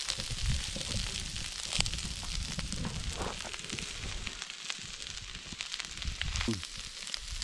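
Vegetables sizzling in hot oil in a seasoned steel wok over a propane fire pit, with a steady hiss and light crackling, and the burner's flames running underneath.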